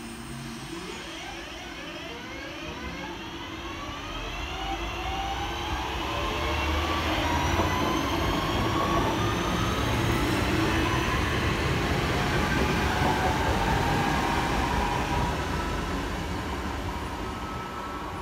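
Northern Class 323 electric multiple unit passing along the platform: running noise on the rails with a motor whine that glides up and down in pitch. It grows louder to a peak in the middle and fades as the train draws away.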